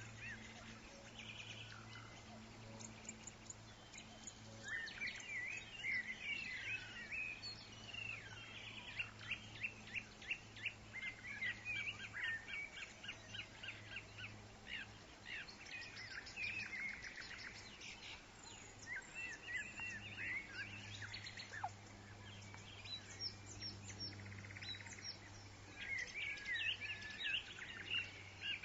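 Several woodland birds chirping and calling on top of one another, with runs of rapid trills, over a steady low hum.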